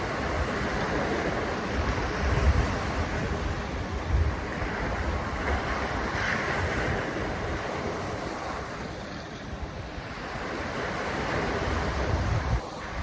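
Wind buffeting the microphone in uneven low gusts over a steady rush of water and waves.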